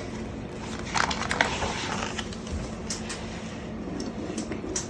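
Handling noise: soft rustling with a few light scattered clicks, at about one, one and a half, three and four and a half seconds in.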